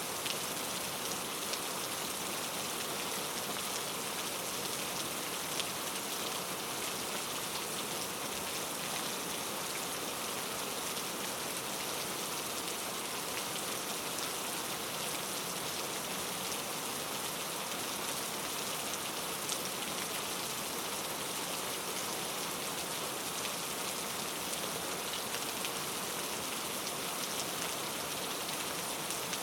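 Steady rain falling, an even hiss of many raindrops with faint patters of individual drops on a surface.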